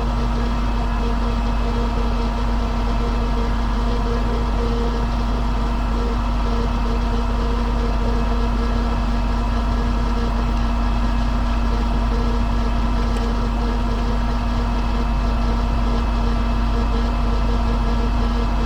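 Caterpillar Challenger track tractor's diesel engine running steadily with a constant drone.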